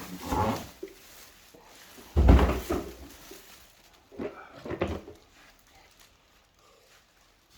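Packaging and plastic vacuum-cleaner parts being handled during unboxing: a heavy thump with rustling about two seconds in, then two shorter knocks, then quieter handling.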